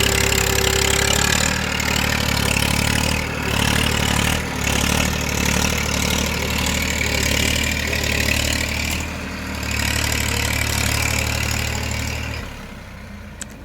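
Tafe 45 DI tractor's 2500 cc three-cylinder diesel engine running steadily, hauling a sugarcane trailer. The engine sound drops away sharply about twelve and a half seconds in.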